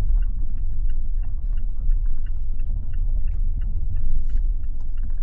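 Car driving on a rough forest road, heard from inside the cabin: a steady low road rumble with frequent small ticks and rattles.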